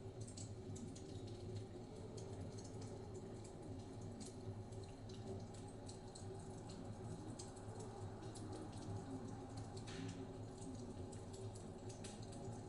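Wood fire crackling in a fireplace, with many small irregular pops, over a steady low rumble of blizzard wind.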